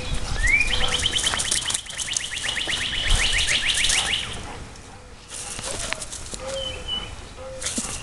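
Outdoor songbird: two quick rising chirps, then a rapid trill of repeated high notes, about eight a second, lasting some three and a half seconds, with a couple of short high notes later. Under it runs a low rumbling, rustling noise.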